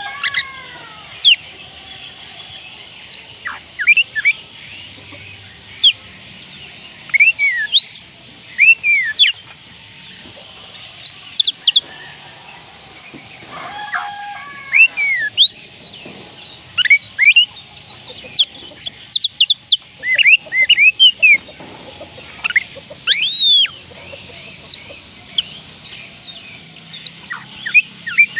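Oriental magpie robin singing: a long run of short, sharp whistled notes that swoop up and down in pitch, some in quick clusters. A lower, rougher call breaks in once about halfway through.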